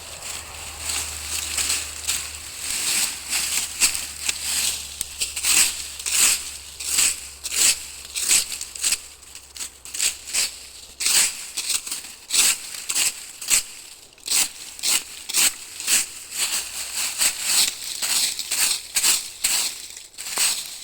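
Footsteps of a person walking on the forest floor, a steady crunch at about two steps a second.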